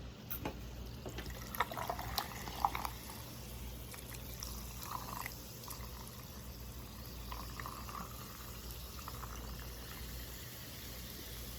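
Faint, wet eating sounds of a seafood boil in spicy sauce being handled and eaten, with a few soft clicks in the first three seconds.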